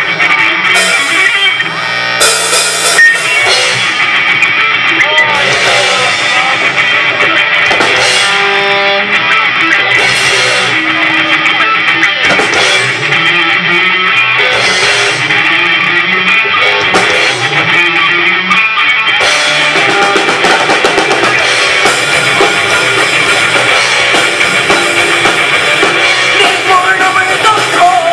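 Live rock band playing an instrumental passage on guitar and drum kit, with no vocals. About nineteen seconds in the playing gets fuller, with steady cymbals over the drums.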